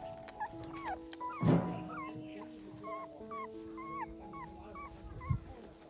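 Puppies whimpering in a run of short, high squeaks, about three or four a second, over soft background music, with one louder sudden burst about a second and a half in.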